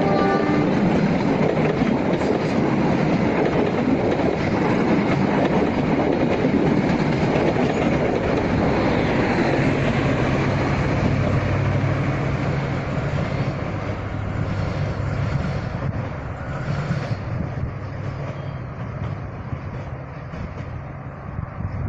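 Train passing at speed, its wheels clattering over the rail joints; the sound tapers off over the last several seconds as the train moves away.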